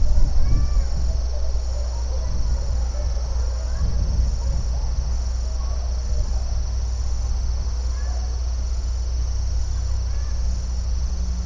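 Steady high-pitched insect chorus, like crickets, over a constant low rumble, with faint short bird calls now and then.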